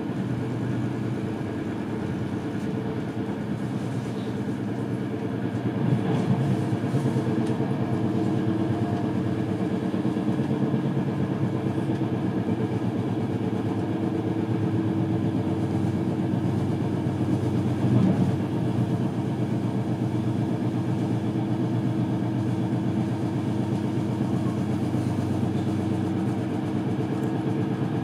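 Passenger train running along the track, heard from inside the carriage: a steady rumble of wheels on rails. It gets louder about six seconds in, with a brief louder spot around eighteen seconds in.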